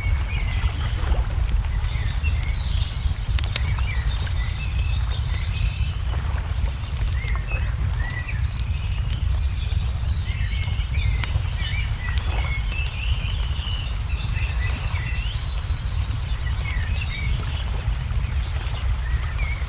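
Layered nature ambience: many small birds chirping and trilling throughout, with scattered sharp pops of a crackling wood fire over a steady low rumble.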